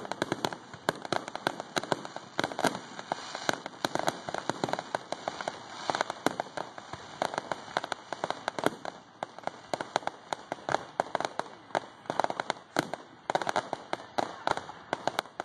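Fireworks going off in a dense, irregular run of sharp pops and crackles, several a second throughout.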